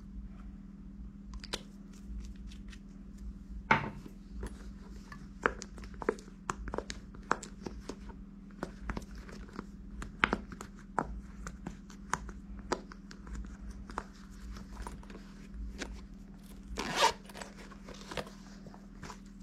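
Irregular small clicks, taps and crinkling handling noises, with a louder rustle about 4 seconds in and another near the end, over a steady low electrical hum.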